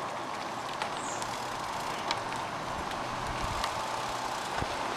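Steady rolling noise of a bicycle ride: tyres on pavement and wind on the microphone, with a few faint clicks.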